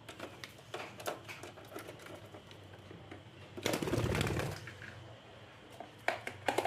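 Pet parrot moving about, with scattered small clicks and scratches and a louder rustle about four seconds in.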